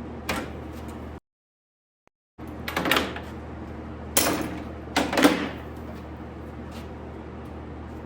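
Three short scrapes and rustles of sheet metal being handled and slid over a steady low shop hum, with a brief gap of total silence about a second in.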